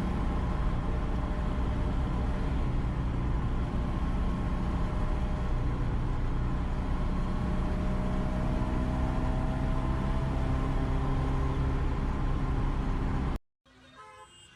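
A motor vehicle engine running steadily with road rumble, a faint tone slowly rising in pitch partway through. The sound cuts off abruptly near the end and gives way to a much quieter background.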